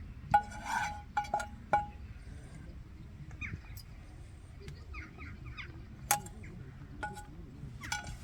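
Metal camping cookware clinking: about seven sharp, ringing metallic clinks, several close together in the first two seconds and the rest spread out later, each ringing on the same clear tones. Faint bird calls run in the background.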